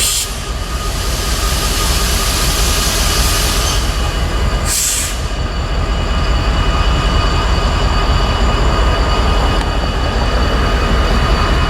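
Norfolk Southern train rolling past close by: a steady heavy rumble, with several high, steady squealing tones held over it. Two brief hissing rushes come through, one at the start and one about five seconds in.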